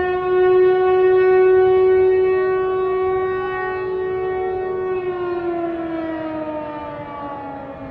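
Civil defense siren sounding one steady, loud tone, then winding down, its pitch falling slowly from about five seconds in.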